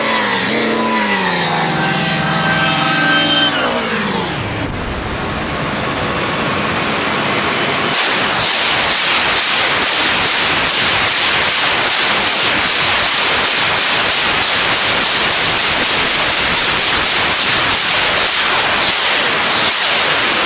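Eurorack modular synthesizer laser patch played through a Make Noise Erbe-Verb reverb. A wavering pitched tone glides down and dissolves into a reverb wash, then from about eight seconds in rapid falling laser zaps repeat about three or four times a second over a dense reverb tail.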